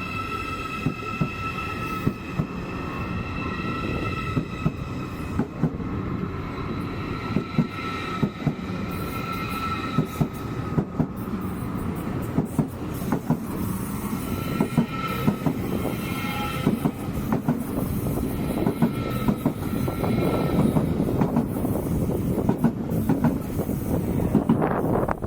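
A train rolling along the station tracks. Its wheels squeal in high steady tones that fade in and out, over a low rumble and a rapid run of clicks from the wheels passing over rail joints and points. The sound grows somewhat louder toward the end.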